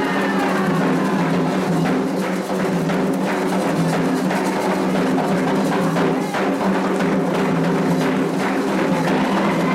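Candomblé ritual drumming: atabaque hand drums play a dense, driving rhythm of sharp strokes, calling the orixá Iansã. Singing voices are heard at the start and again near the end.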